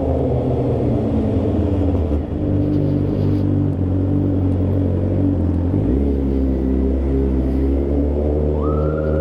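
2007 Suzuki GSX-R inline-four sportbike with an SC Project slip-on exhaust and cat delete, running while being ridden. Its engine note drops abruptly about two seconds in and again around six seconds. A high rising tone comes in near the end.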